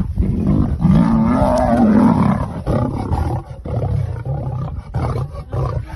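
Lion roaring: one long, loud call, then a run of shorter, quieter calls.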